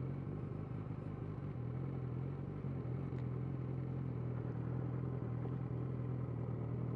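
Suzuki GSX650F's inline-four engine running at steady, low revs while the motorcycle cruises, a constant hum that neither rises nor falls.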